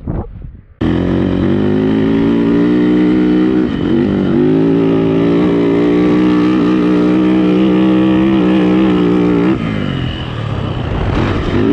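Yamaha YZ450 dirt bike's four-stroke single-cylinder engine held at high revs. It cuts in suddenly about a second in, dips briefly in pitch about four seconds in, then backs off in level and pitch near the end before picking up again.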